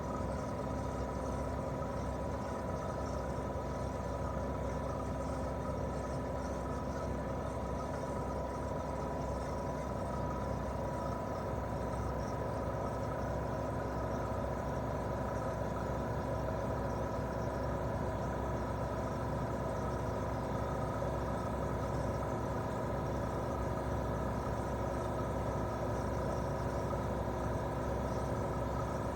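Daikin R28RMV mini-split outdoor unit running in heating mode: its twin-cylinder swing compressor and fan give a steady hum with a held mid-pitched tone that does not change.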